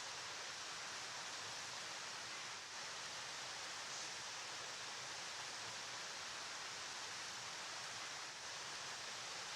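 Steady rushing of a flowing river, an even hiss without breaks, pitched high like white noise.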